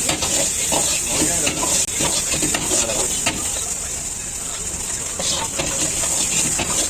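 Food sizzling in hot oil on a street vendor's pan, with scattered clicks and scrapes of metal utensils stirring it.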